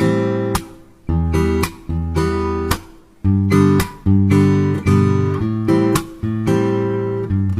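Acoustic guitar strumming chords, each strum ringing on before the next, with no singing.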